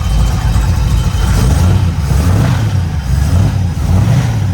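1968 Camaro's 327 small-block V8 running evenly, all cylinders firing again after a dead-cylinder misfire in its Pertronix electronic ignition was fixed: much smoother. The revs swell slightly a couple of times.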